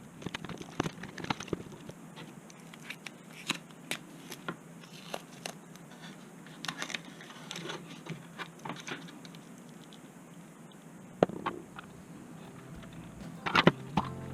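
Irregular small clicks, taps and crinkling of small parts being handled during a repair. About 11 seconds in there is one sharper click, and a few more come close together near the end.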